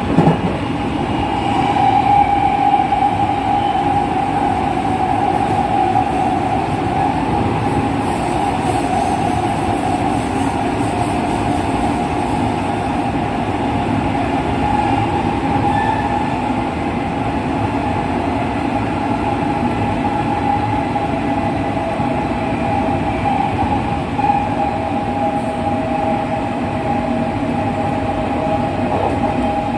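JR West 207 series commuter train running at a steady speed, its original, unrenewed traction motors giving a steady whine over the rumble of wheels on rail. A single sharp knock sounds at the very start.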